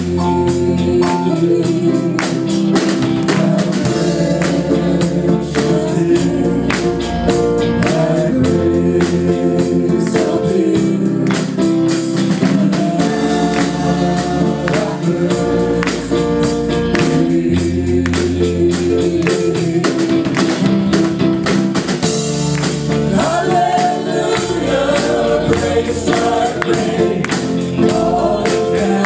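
Christian worship song performed by singers over a full band, with sustained chords and a steady percussion beat.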